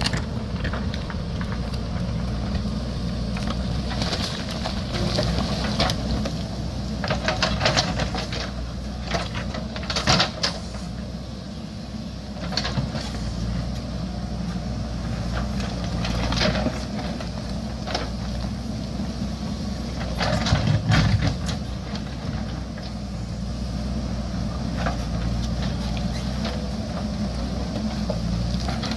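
JCB backhoe loader's diesel engine running steadily under work, with scattered sharp knocks and scrapes as it digs into rocky ground, loudest about ten seconds in and again about twenty seconds in.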